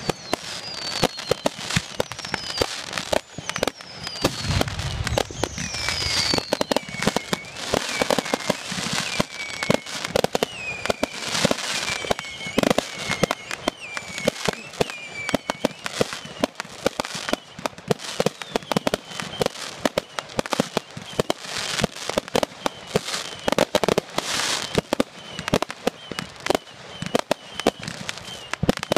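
Fireworks display: a rapid, continuous run of bangs and crackling pops. In the first half several whistles glide down in pitch, and short high whistles keep sounding between the bangs later on.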